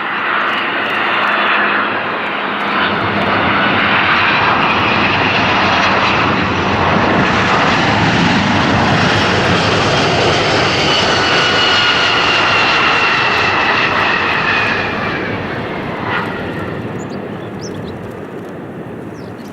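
Airliner passing close by: its engine noise swells, stays loud for about ten seconds with whining tones that fall in pitch, then fades away.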